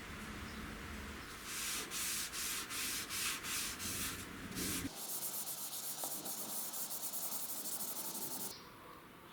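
Sanding in rhythmic back-and-forth strokes, about three or four a second, then after a sudden change about five seconds in, quicker, finer strokes that stop near the end.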